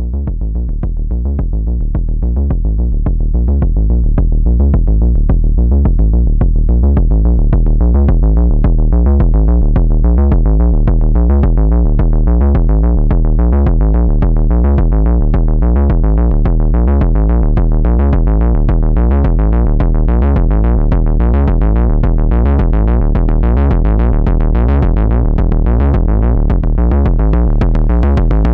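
Electronic kick-drum and bass loop from the Ants! synthesizer, distorted through the Plankton Electronics Spice saturator module. The fast, even pattern of heavy low hits swells louder over the first few seconds, then holds steady, turning brighter and grittier near the end.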